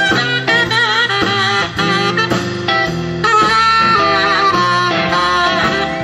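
A band playing a bluesy jazz tune, with a saxophone carrying the melody over guitar and rhythm.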